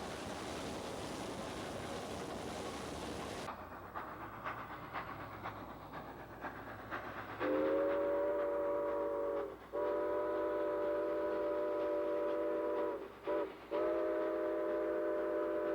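Steam locomotive whistle with several tones in a chord, blowing long, long, short, long: the grade-crossing signal. Before it comes a steady rushing noise, then light clicking of wheels over rail joints.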